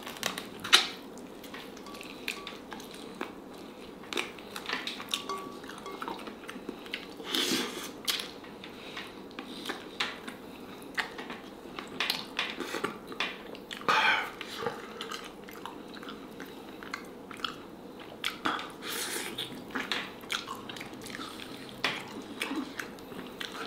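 A person chewing and biting black chicken off the bone, with irregular wet mouth sounds and small clicks.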